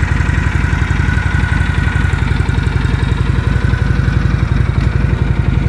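1970 Harley-Davidson FLH Electra Glide's Shovelhead V-twin engine idling steadily, with a fast, even run of low exhaust pulses.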